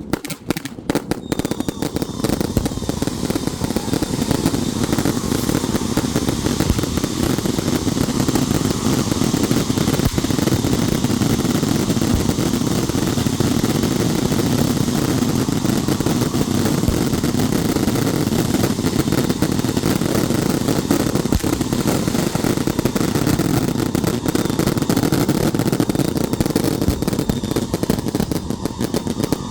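Long string of firecrackers going off, separate cracks at first, then a dense unbroken rattle like machine-gun fire.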